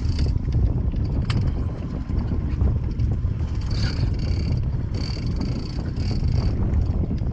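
Boat engine running under a steady low rumble, with wind buffeting the microphone. A high-pitched whine comes and goes in short stretches several times.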